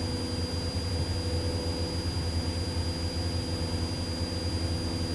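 Cessna 172's piston engine and propeller droning steadily at climb power, heard inside the cabin, with a thin steady high tone over it.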